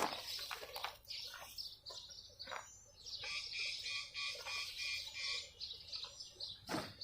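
Small birds chirping repeatedly, with scattered light clicks and knocks.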